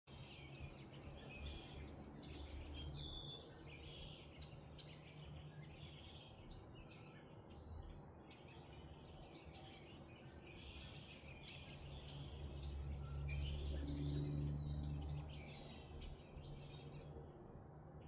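Birds chirping and calling in many short, overlapping notes, over a low steady rumble that swells for a few seconds past the middle.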